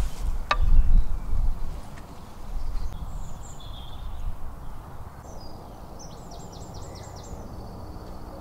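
Birds chirping, with a quick run of about six repeated high notes near the end, over a steady low background rumble; a single knock about half a second in.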